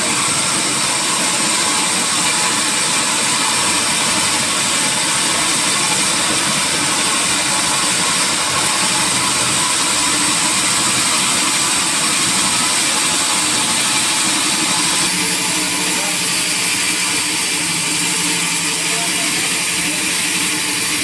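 Sawmill machinery running steadily at a constant loud level. The tone shifts about fifteen seconds in.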